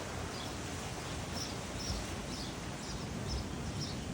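Small songbird chirping: a series of short, high chirps, about two a second, over a steady background hiss.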